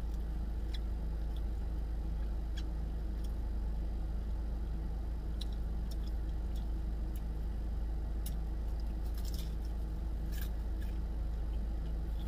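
Biting into and chewing fried chicken, with scattered sharp crunches and mouth clicks, clustered about nine to eleven seconds in. Under it runs the steady hum of a car's idling engine and air conditioning, heard from inside the cabin.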